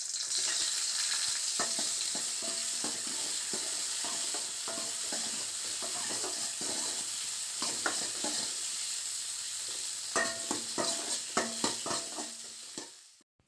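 Shallots, garlic, ginger and tomato pieces sizzling in hot oil in a metal kadai, with a steel ladle scraping and clicking against the pan as they are stirred. The sound cuts off suddenly near the end.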